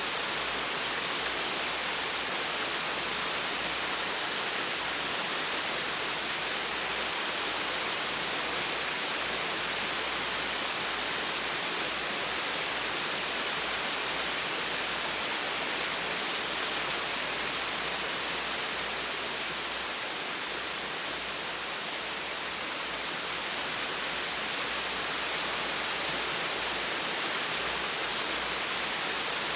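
Small waterfall splashing steadily: an even rush of falling water with a slight dip in loudness a little past the middle.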